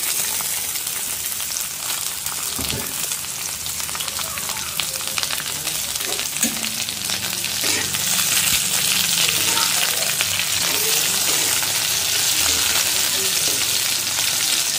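Sliced tomatoes and onions sizzling and crackling in hot mustard oil in a metal karahi, stirred with a metal spatula. The sizzle picks up as the tomatoes go in and grows a little louder in the second half.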